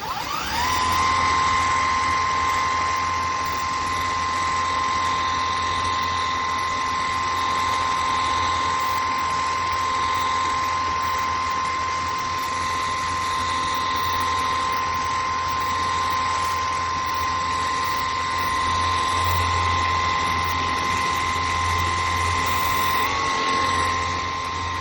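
Ontel Turbo Jet HydroX5 Pro cordless pressure washer's battery motor and pump running: the motor spins up in about half a second as the trigger is pulled, then holds a steady high whine over a low hum and a hiss.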